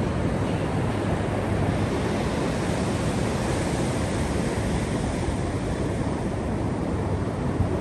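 Steady rush of Pacific Ocean surf breaking on the beach, mixed with wind.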